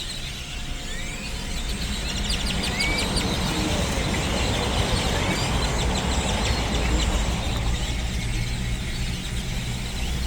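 A huge flock of birds calling all at once: a dense chorus of overlapping squeaky chirps and short rising whistles, over a steady low rumble.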